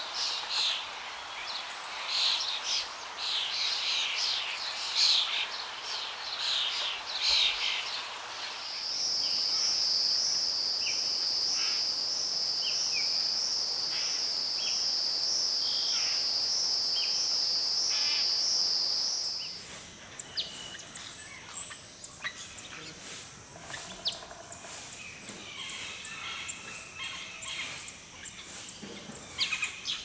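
Tropical forest ambience: birds chirping and calling throughout, with rapid chirps at first. About a third of the way in, a steady, high, wavering insect trill joins them, and it stops abruptly about two-thirds of the way through.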